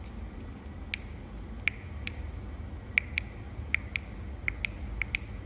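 Garage door opener running: a steady low hum under sharp, irregular clicks and creaks, about two a second from about a second in.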